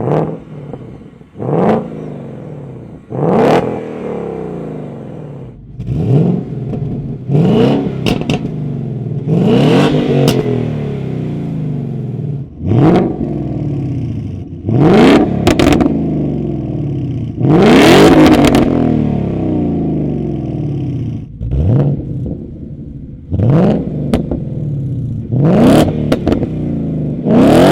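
High-performance car engines with loud exhausts being revved hard over and over, more than a dozen quick blips, each a sharp rise in pitch that falls away, several with loud cracks from the exhaust.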